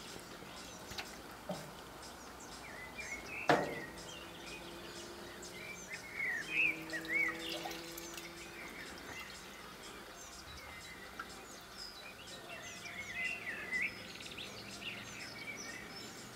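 Songbirds chirping and singing throughout, with one sharp knock about three and a half seconds in.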